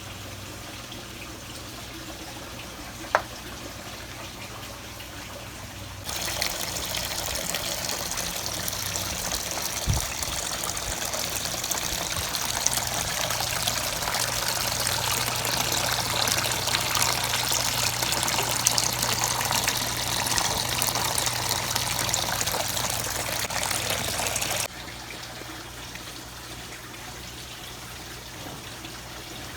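Water trickling quietly; about six seconds in, a louder rush of pouring or spraying water starts suddenly, runs for about eighteen seconds and cuts off abruptly, leaving the quiet trickle.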